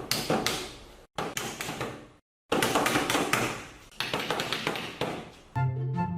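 Rapid taps and knocks in short bursts, broken by sudden cuts to silence. Music with a steady bass line starts near the end.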